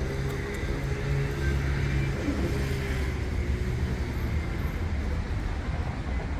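A motor vehicle's engine running close by, a steady low rumble over street traffic noise.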